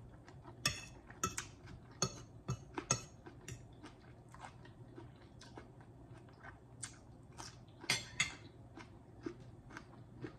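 Close-miked eating: chewing with sharp, irregular crunches as crisp cucumber and salad are bitten, and a fork clicking against the bowl. The loudest crunches come in clusters about a second in and again near the end.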